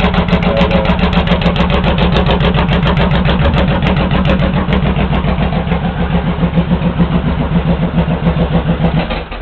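Honda VTX1800's V-twin engine idling through 3-inch HardKrome straight pipes, a steady run of evenly spaced exhaust pulses with a loping beat.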